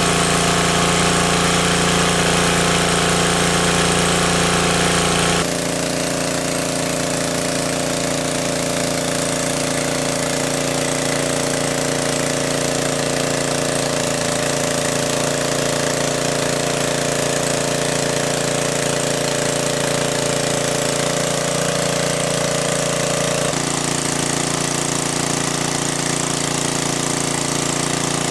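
Small engine running steadily. Its tone shifts abruptly about five seconds in and again near the end.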